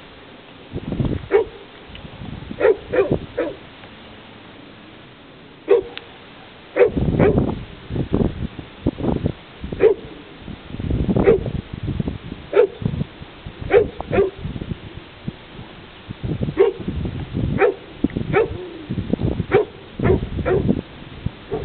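Dog barking in short single barks, spaced irregularly about a second apart, with a pause of a couple of seconds after the first few.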